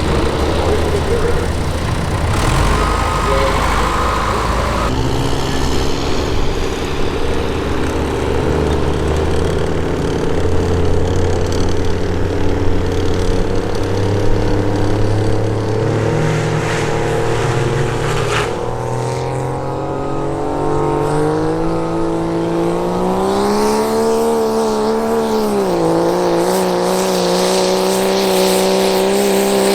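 Turbocharged diesel pickup truck engine pulling a sled under full load. The engine note is lower and uneven at first. About two-thirds of the way in, its pitch climbs, wavers, dips briefly and then holds high.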